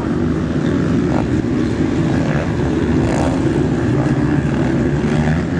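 Motocross bikes racing, several engines running together in a loud, steady drone.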